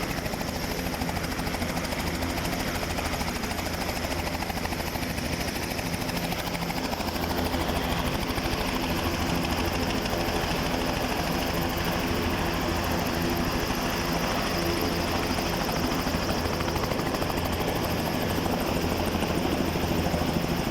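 Helicopter engine and rotor running steadily, with a fast rotor beat under a constant engine tone.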